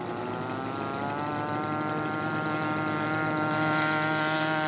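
Engine of a radio-controlled scale model of a Kawasaki Ki-61 'Tony' running up to full power for its takeoff run. The pitch rises over the first second or so, then holds steady while the sound grows slowly louder as the plane comes closer.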